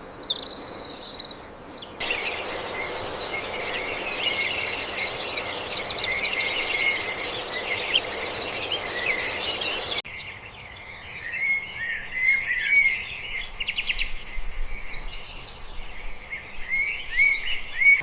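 Songbirds singing and chirping, many short warbling calls at once. The birdsong changes abruptly twice, about two and ten seconds in, where separate recordings are cut together; the middle stretch carries a denser chorus over a steady background hiss.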